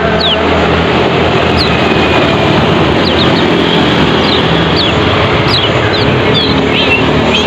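Kecial kuning birds calling in short, high chirps that sweep quickly in pitch, scattered through the clip and coming more often in the second half. A loud steady rushing noise runs underneath.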